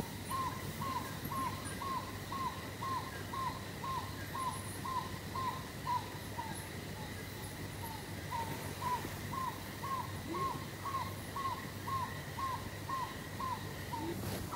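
An unidentified night bird calling a long, even series of short clipped notes, all at one pitch, a little over two a second, faltering briefly about halfway through.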